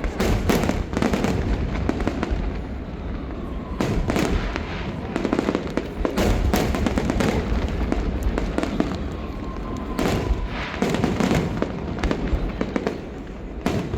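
Fireworks display: a rapid run of shell bursts and crackling with rolling booms, many explosions overlapping throughout.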